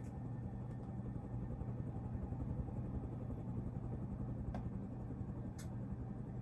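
Winco 52-inch cast-motor ceiling fan running on its high setting, a steady low motor hum with a couple of faint ticks. On high it turns slowly, which the owner says acts like a bad capacitor.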